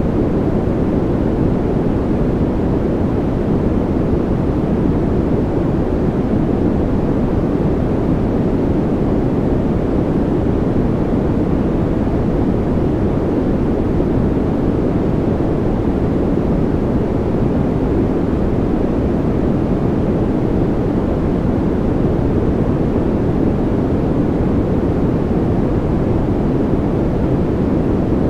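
Steady, unchanging noise from a sleep-sound track sold as white noise. It is deep in tone, with most of its energy low and little hiss up high.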